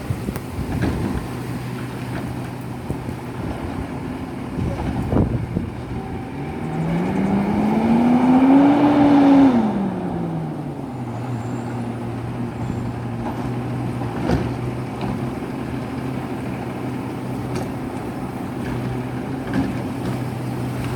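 Garbage truck engine running steadily at idle. Near the middle it revs up and then drops back to idle over about four seconds.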